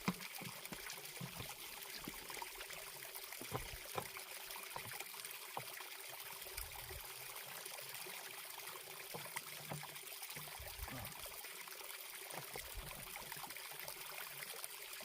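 A small mountain stream running with a steady trickle, with a few faint clicks over it.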